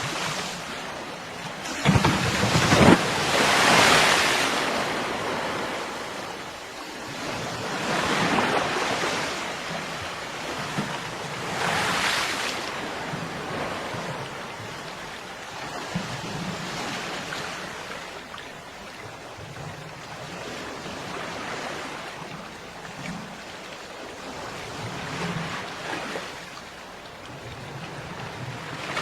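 Ocean surf breaking on a beach: waves swell and fall away every few seconds, the strongest breaking about two to four seconds in and again near the end.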